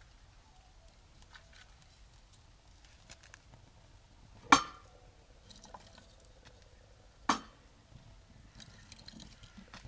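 Two sharp knocks about three seconds apart, among faint light clicks and taps.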